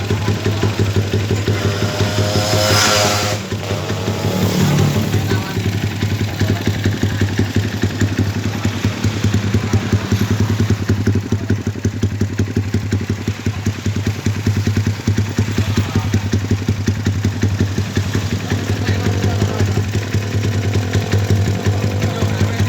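Exhaust note of a bored-up 165cc Yamaha Jupiter MX four-stroke single through a CLD oval aftermarket muffler, idling with a rapid, even pulse. It is revved briefly in the first few seconds and again lightly near the end.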